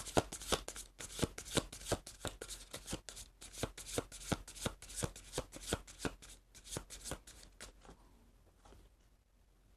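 An oracle card deck shuffled by hand: a quick, uneven run of crisp card slaps and flicks that stops about eight seconds in.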